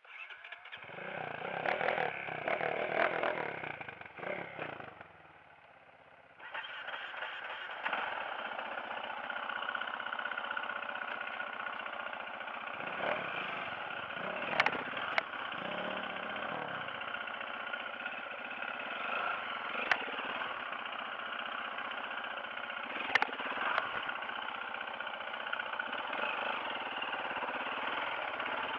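Dirt-bike engine noise for the first few seconds, then, after a short lull, a dirt-bike engine starts and runs steadily, with a few sharp clicks over it.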